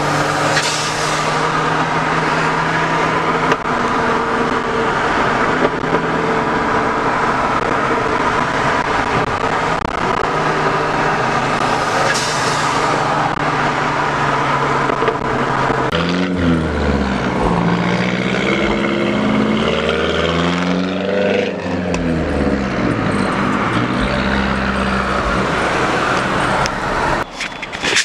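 Car engine running at a steady pitch while driving, then revving up and down several times in the second half.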